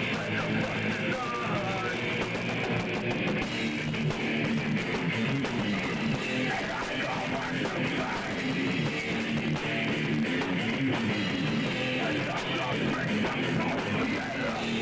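Punk rock band playing live, electric guitars to the fore.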